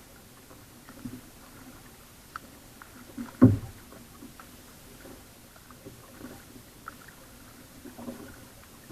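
Pelican Covert 120 kayak being paddled: soft, irregular paddle strokes and knocks about once a second, with one loud knock about three and a half seconds in.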